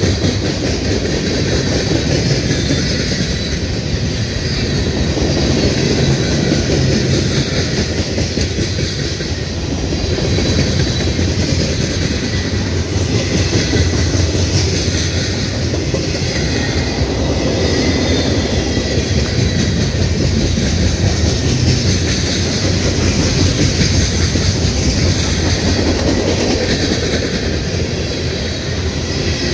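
Freight train cars rolling past, a loud, steady noise of steel wheels on the rails that swells and eases slightly every few seconds.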